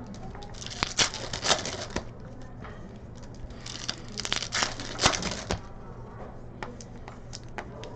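Trading card packs being handled: foil wrappers crinkling and tearing, with scattered sharp clicks of cards, in short bunches about a second in, around the middle and again a little later.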